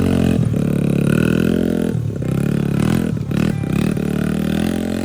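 Dirt bike engine revving hard under load as the bike climbs a steep hill. The revs drop and pick up again about two seconds in, and again around three to three and a half seconds in.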